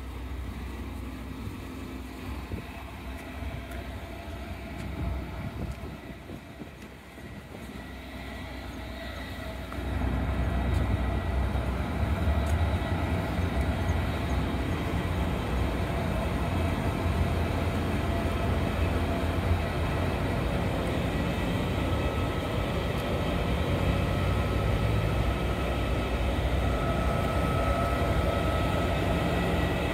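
Electric train running near the station: a steady low rumble with a few held tones, starting abruptly about ten seconds in. Before that there is quieter street noise.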